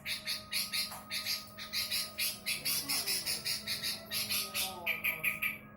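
Sooty-headed bulbul (kutilang) singing, with its repertoire of mimicked phrases: a fast run of short harsh chirps, about five a second, over softer whistled notes that glide up and down. The chirping breaks off briefly near the end.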